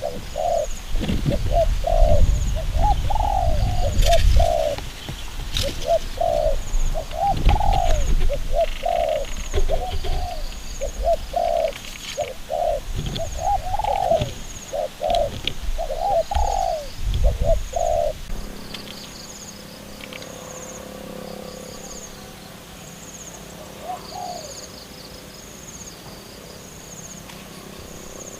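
A dove cooing in a long run of short coos, a little over one a second, with low rumbling underneath; the coos stop about two-thirds of the way through. A faint high chirp repeats steadily above it the whole time.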